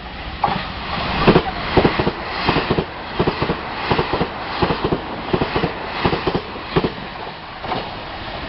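Passenger train passing through a station at speed, its wheels clattering rhythmically over the rail joints in quick double knocks.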